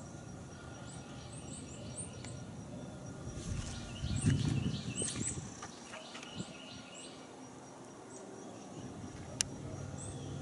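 Birds chirping outdoors in short, repeated high calls over a faint steady high whine. A brief low rumble comes about four seconds in, and a single sharp click near the end.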